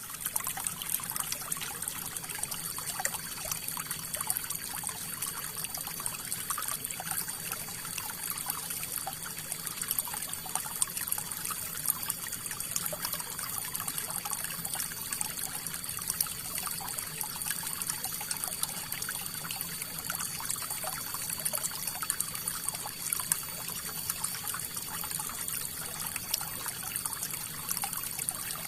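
River water flowing steadily, a continuous trickling rush with many small splashes throughout.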